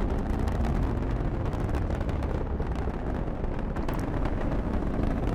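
Atlas V rocket's RD-180 first-stage engine rumbling and crackling steadily as the rocket climbs through its ascent.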